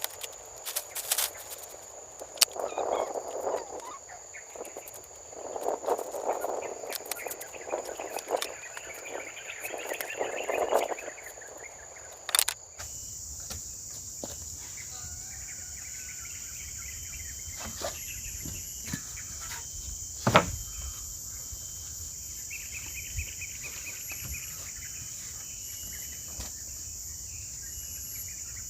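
Insects, crickets among them, chirring steadily at a high pitch. Irregular louder noises and clicks sound over them in the first half. After an abrupt cut about halfway through comes a steadier insect chorus, with a single sharp knock and a short trill a little later.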